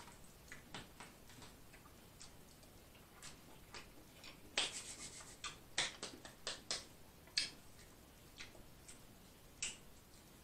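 Faint close-up chewing and lip-smacking: irregular wet mouth clicks, thickest in the middle few seconds.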